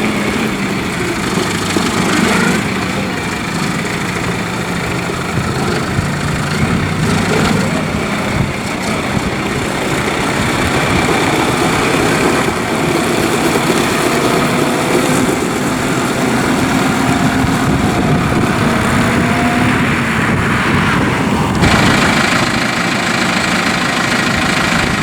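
Case IH Farmall 100C tractor's diesel engine running, its speed drifting up and down a little, with a shift in its sound near the end.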